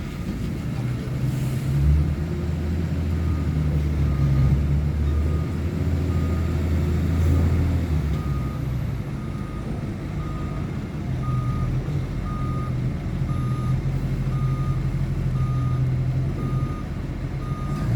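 A heavy vehicle's engine running with a low drone, and from about halfway in a reversing alarm beeping at an even pace, a little faster than once a second.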